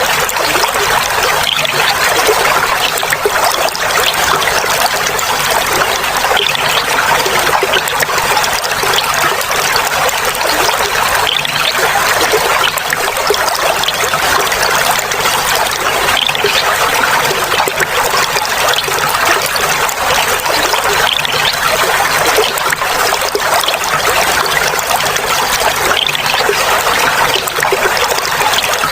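Clear flowing water trickling and babbling steadily, an even splashing hiss with no deep rumble.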